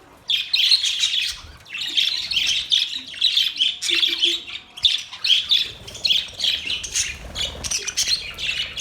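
Budgerigars chattering: a dense, continuous warble of quick, high chirps and squawks, starting a moment in after a brief lull.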